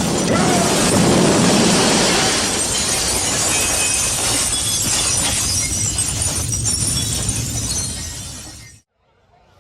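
Loud, dense crashing and shattering noise, like glass breaking amid a din, fading over the last couple of seconds and cutting off sharply about nine seconds in.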